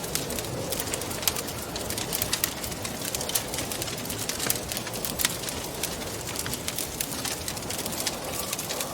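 Wood fire crackling with many irregular sharp pops and snaps over a steady soft rush of wind.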